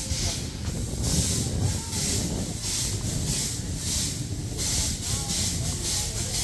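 Steam traction engines standing under steam, hissing in repeated pulses about twice a second over a low rumble.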